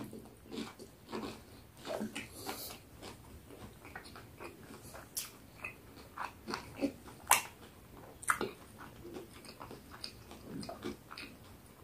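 Close-up biting and chewing of a crispy fried-chicken burger: a run of small crunches, the sharpest about seven and eight and a half seconds in.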